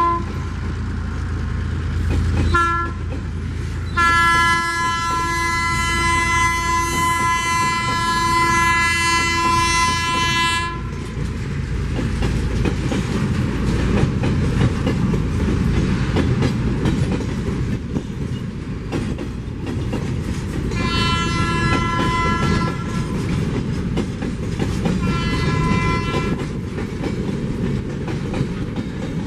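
Air horn of an ALCO RSD-16 diesel locomotive, a multi-note chord, sounding a few short blasts, one long blast of about seven seconds, and two more later. Under it, the locomotive's diesel rumble and the steady wheel-on-rail clatter of the passing train's cars.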